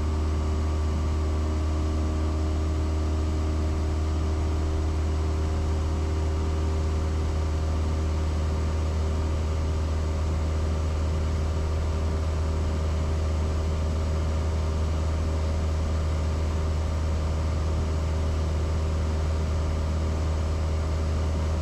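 Steady drone of a Cessna 172S's Lycoming four-cylinder engine and propeller heard from inside the cockpit, holding an even, unchanging power setting during the climb-out after takeoff.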